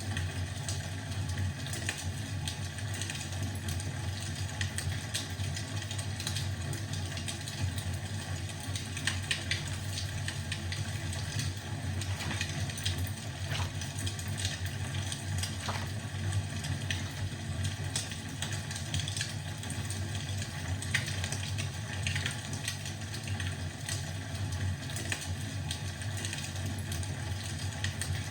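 Wood fire burning in a fireplace: a steady low rumble of the flames with scattered crackles and pops throughout.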